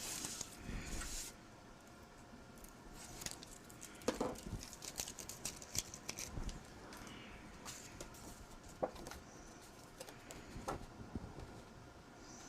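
Cardstock being handled on a craft table: a brief paper rustle and slide at the start, then scattered light taps and clicks as the paper is positioned and pressed down.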